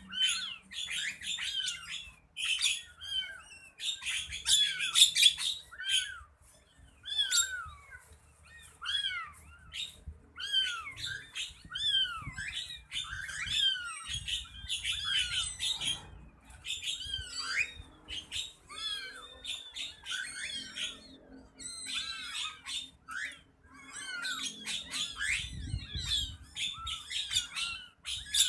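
Many small birds chirping and squawking almost nonstop, with short calls that swoop down in pitch and overlap in a noisy chorus.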